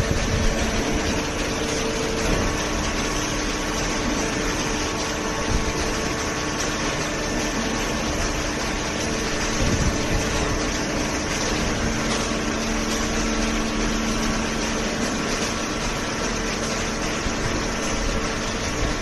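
Hydraulic cardboard baler running: the electric motor and hydraulic pump give a steady, even hum with a few faint tones that shift now and then.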